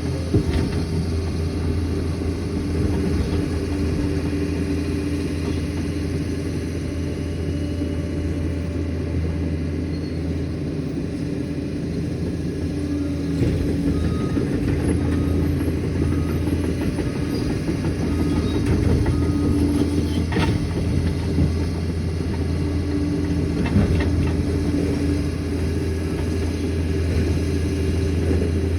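Liebherr 746 crawler dozer's diesel engine running steadily under work, with the clatter of its steel tracks and a few faint knocks.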